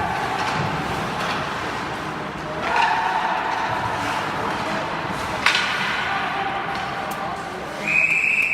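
Ice hockey rink sounds: skates scraping and carving on the ice under a general hum of voices, with a sharp crack about five and a half seconds in, like a puck or stick striking. Near the end a steady high whistle starts, a referee's whistle stopping play.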